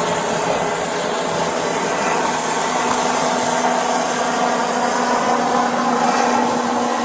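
A vehicle engine idling under a steady rushing noise, with a steady low hum coming in about two and a half seconds in.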